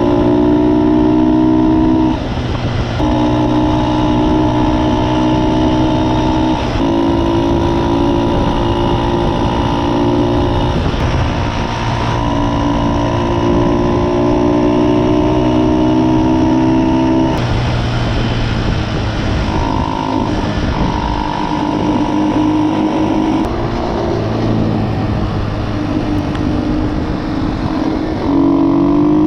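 Motorbike engine running at a steady pitch while riding, the throttle eased off and opened again several times, and revving up near the end.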